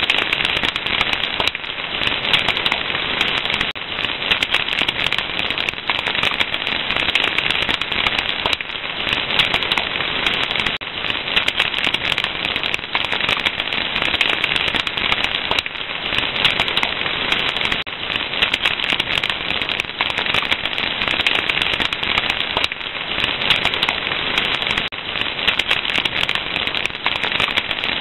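Wood fire crackling steadily: a dense, unbroken stream of small pops and snaps over a soft hiss.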